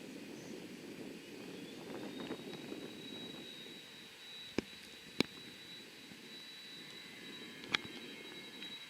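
Distant jet aircraft engines running: a low steady rumble with a thin high whine that rises slightly about half a second in and then holds. Three sharp clicks come in the middle and near the end.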